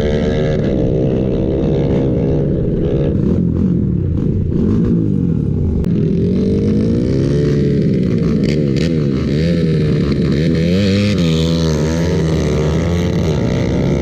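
Drag-racing engines running loudly. One is revved up and down several times over a steadier engine note.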